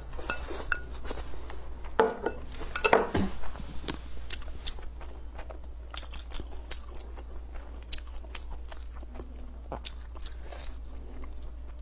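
Close-miked mouth sounds of a person chewing a mouthful of braised pork belly with preserved mustard greens: many small wet clicks and smacks, with a louder stretch of chewing about two to three seconds in.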